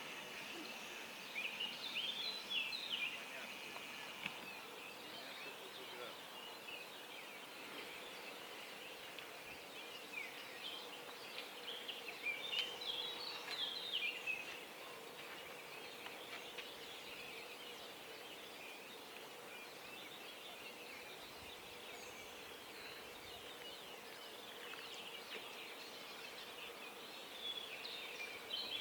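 Songbirds singing in the dawn chorus: bursts of quick chirping, warbling song about two seconds in, again from about ten to fourteen seconds, and near the end, over a faint steady outdoor hiss.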